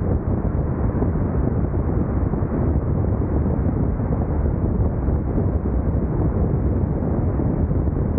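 Steady wind rush buffeting the camera microphone on a moving Honda NC750X DCT motorcycle, mixed with engine and road noise.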